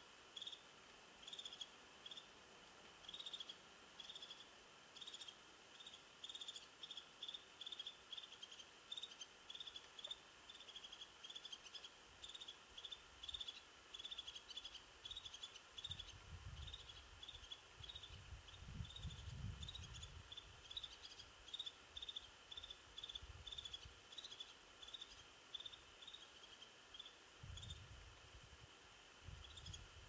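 A bird repeating one short, high call over and over, about twice a second, faint and steady. In the second half, gusts of wind on the microphone add a low rumble.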